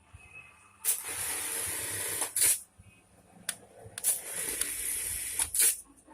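Two long hissing blasts from a pressurised spray, each about a second and a half, each ending in a short, louder burst.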